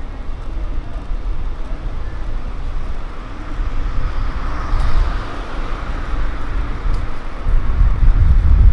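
Road traffic: motor vehicles driving past over a steady low rumble, with one pass swelling about halfway through and another growing louder near the end.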